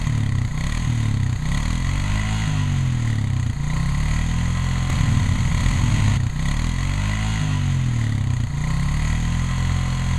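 A small engine running and revving, its pitch swinging up and down in repeated swells, starting suddenly.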